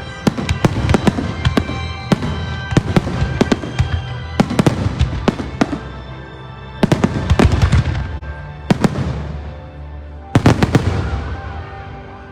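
Aerial fireworks bursting in rapid volleys of sharp bangs over music. There is a heavy salvo about ten seconds in, then the bangs die away near the end.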